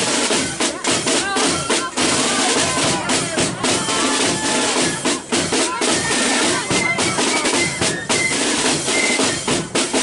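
Marching flute band playing, with rattling snare drums and a bass drum under the flutes' melody.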